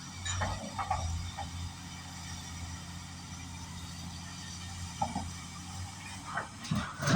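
Kobelco 380 hydraulic excavator's diesel engine running steadily, with short metal clanks and knocks from the machine, a few in the first second, one about five seconds in, and the loudest just before the end.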